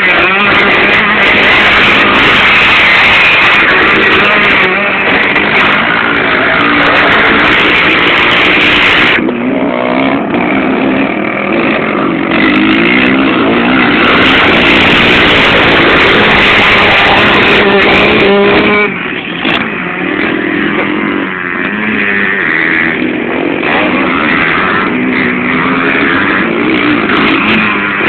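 Motocross bike engine revving hard, its pitch climbing and falling again and again as the throttle opens and closes, with a brief drop-off near two-thirds of the way through.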